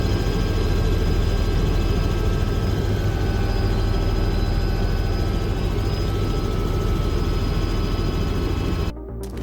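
Helicopter running steadily, a dense low rotor and engine noise with a steady high whine over it, cut off abruptly near the end.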